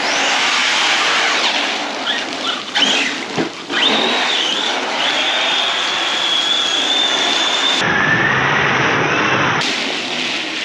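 Arrma Big Rock 6S RC truck's brushless motor whining at speed as it drives through water, over a steady hiss of rain and spray. The high whine glides, then holds steady for several seconds before giving way briefly to a lower whine that rises.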